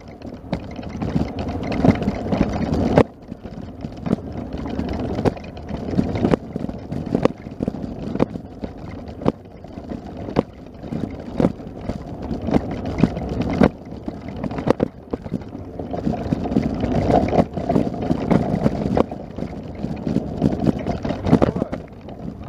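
Wind buffeting the microphone, a loud, uneven low rumble, with short knocks about once a second.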